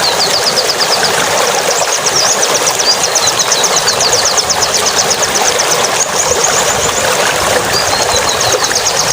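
A songbird giving runs of rapid, high repeated chirps over a loud, steady rushing noise like running water.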